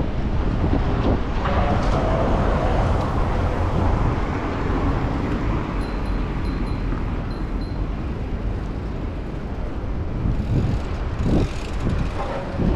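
Riding-along street noise: passing traffic and wind rumble on the microphone, with a few short high beeps about six to eight seconds in.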